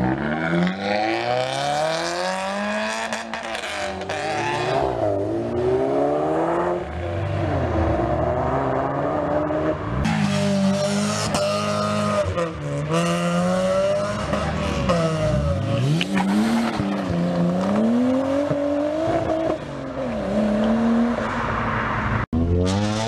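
Modified cars' engines revving hard as they pull away one after another, the pitch rising and falling with each rev. About halfway through, tyres spin and squeal through a smoky burnout.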